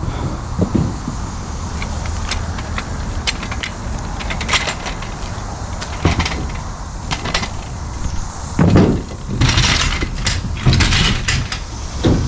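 Scattered knocks, clatter and rustling over a steady low rumble, with a few louder bursts of rustling and knocking near the end.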